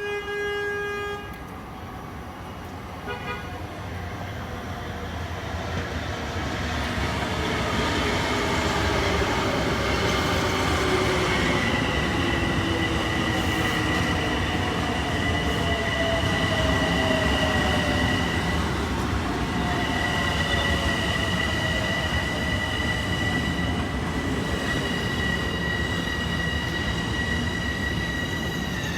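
A Long Island Rail Road train sounds a short horn toot, then runs in with a rumble that builds over several seconds and stays loud. Whining tones fall slowly in pitch, with a steady high squeal over the top, as the train slows.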